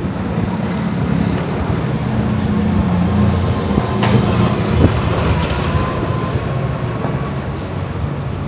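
A large vehicle passing, its low rumble swelling through the middle and easing off toward the end, with a single sharp click about four seconds in.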